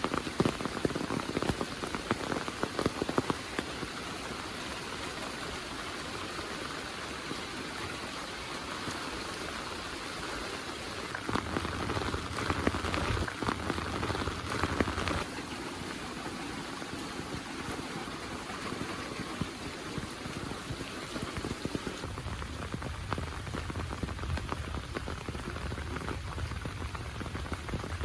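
Heavy monsoon rain pouring steadily, with sharp, close drop impacts ticking densely in the first few seconds and a low rumble that comes and goes.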